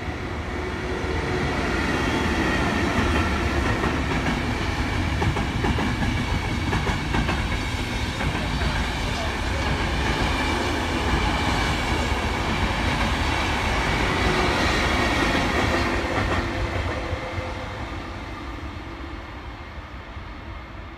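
Frecciabianca electric passenger train passing through without stopping, its wheels clattering over the rail joints. The sound builds over the first couple of seconds, stays loud while the coaches go by, and fades away after about sixteen seconds.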